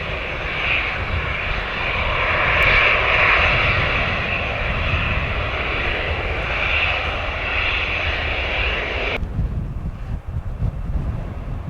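Jet airliner engine noise, a steady hiss, with wind rumbling on the microphone underneath. The engine sound cuts off suddenly about nine seconds in, leaving the wind.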